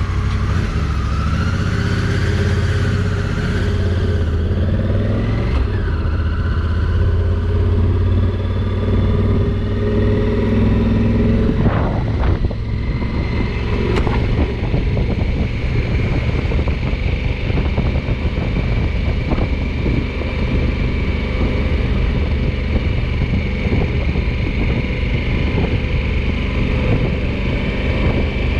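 2020 Honda Africa Twin's parallel-twin engine running after being started. The revs rise over the first few seconds as the bike pulls away, then hold steady as it is ridden on, with a couple of short knocks in the middle.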